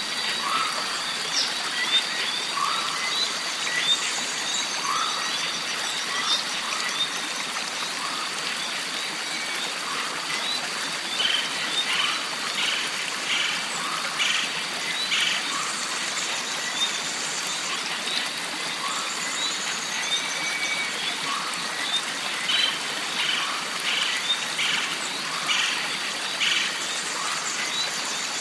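Jungle stream trickling steadily, with a constant high-pitched drone and repeated short chirping animal calls over it, and a few falling high trills.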